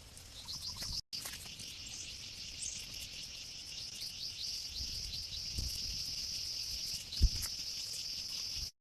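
Outdoor insect chorus, crickets trilling steadily high with many quick chirps layered over it; a brief cut to silence about a second in. A single sharp thump near the end is the loudest sound.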